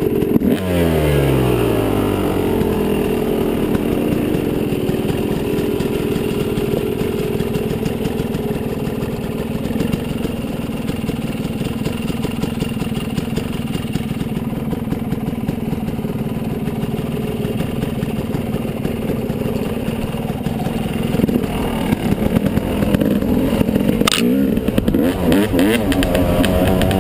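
Yamaha 250 dirt bike engine: the revs drop sharply just after the start, then it runs at a steady speed. Near the end the revs rise and fall again.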